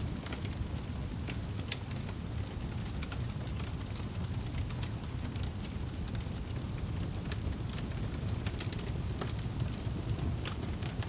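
Wood fire burning with a steady low rumble and scattered sharp crackles and pops of the firewood.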